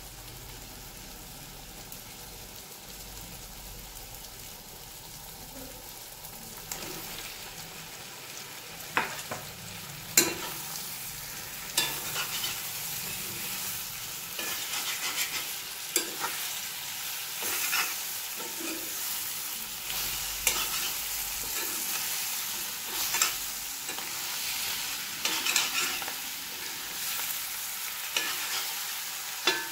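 Chicken curry frying in a cast-iron kadai, a soft sizzle that grows much louder about seven seconds in as raw jackfruit chunks go into the hot pan. A metal spatula then stirs and turns the pieces, knocking and scraping against the iron every second or two over the sizzle.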